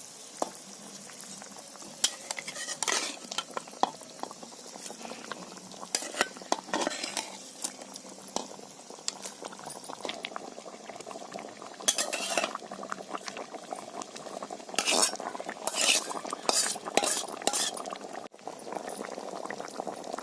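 Metal spoon stirring and scraping in a pan of cooking fish curry, with irregular clinks and scrapes over a steady sizzle. The scraping is loudest about twelve seconds in and again a few seconds later.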